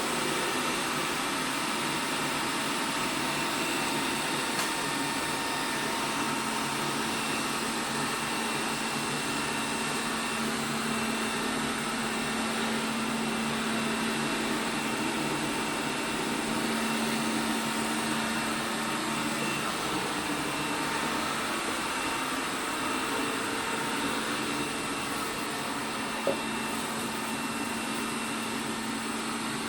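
ELARI SmartBot Lite SBT-002A robot vacuum running: a steady motor-and-fan hum with a few constant tones, and a single brief knock near the end.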